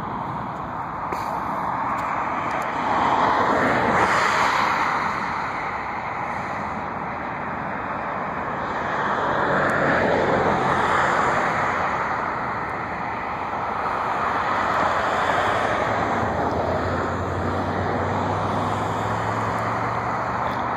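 A continuous rush of vehicle noise that swells and fades several times, with a low steady engine hum coming in over the last few seconds.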